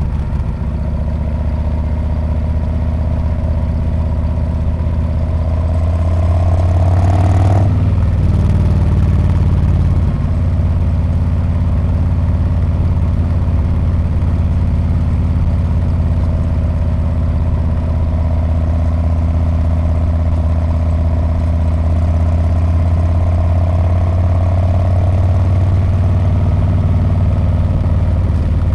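Harley-Davidson Street Bob's V-twin engine and exhaust under way on a ride. It climbs in pitch and then drops sharply about seven seconds in, then runs on steadily with small swells.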